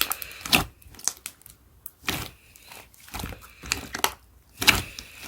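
Dark green slime being squished and pressed by hand, giving short crackling, popping squishes every half second or so as air pockets burst.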